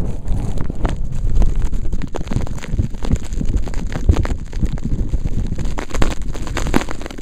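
Strong blizzard wind buffeting the camera microphone, a loud uneven rumble that rises and falls in gusts.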